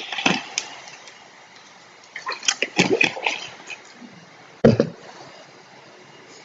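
A series of short sharp clicks and knocks: two at the start, a quick cluster around two to three and a half seconds in, and one loud knock near five seconds, over a low steady background hiss.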